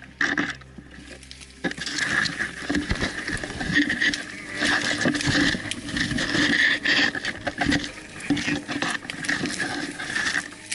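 Dense rustling and crackling of leaves, twigs and brush as someone pushes through thick vegetation, with many irregular snaps.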